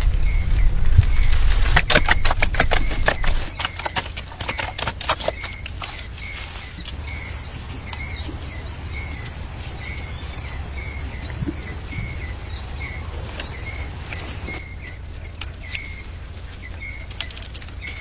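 A bird chirping over and over at an even pace, a little more than once a second. A burst of rapid clicks and taps comes in the first few seconds.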